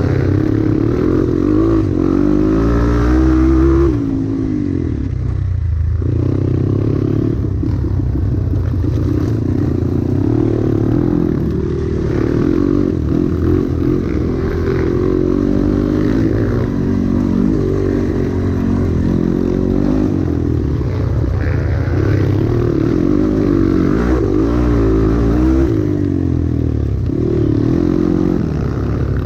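Dirt bike engine being ridden on a trail, its revs rising and falling constantly under changing throttle, with a short drop off the throttle about five seconds in.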